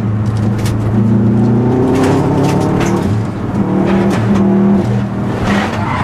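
A 2004 Subaru WRX STi's turbocharged flat-four engine under hard driving, heard from inside the cabin, its note rising and dropping several times with gear changes and throttle lifts. Sharp clicks are scattered through it.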